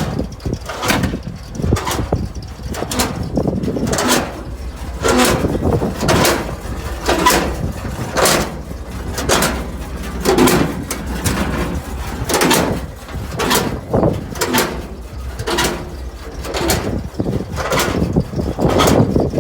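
1971 International truck running, a steady low engine rumble with irregular knocks and rattles, roughly one or two a second.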